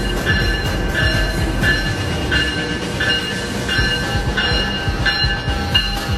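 Railway bell ringing at a steady pace, about three strikes every two seconds, over the low rumble of a train.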